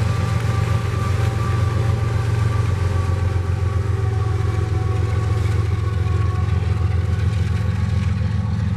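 Freight train passing: a steady, loud low drone with faint steady high tones above it.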